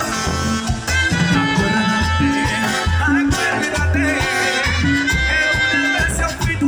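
Live Latin tropical dance band playing an instrumental passage, with a bouncing bass line, maracas and melodic horn or keyboard lines.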